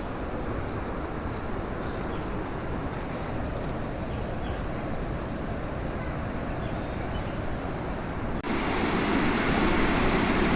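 Waterfall: a steady rush of falling water. About eight seconds in it abruptly becomes louder.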